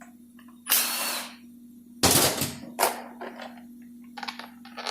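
Power tool run in several short bursts: a longer run about a second in and another about two seconds in, then a string of brief blips.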